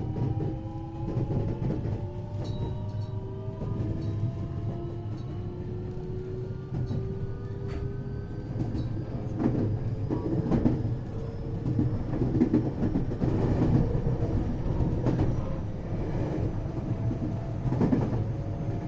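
521-series electric multiple unit heard from inside its motor car, running over a low rumble while the traction motors' whine climbs steadily in pitch as the train gathers speed. The whine fades about nine seconds in, and the wheels then click over rail joints every second or so.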